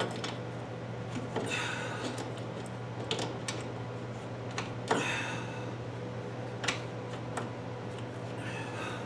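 Scattered light clicks and taps, with a few brief hisses, over a steady low hum.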